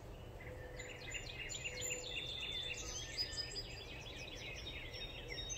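Several songbirds chirping and singing at once, quick overlapping chirps and short whistles, over a steady low background noise.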